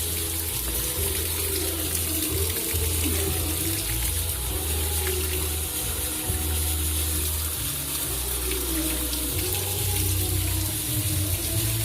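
Steady rush of running or falling water, with background music playing over it.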